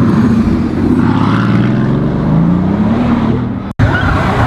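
Sports car engine running, its pitch climbing as it revs up between about two and three seconds in. The sound drops out abruptly near the end, then an engine runs on steadily.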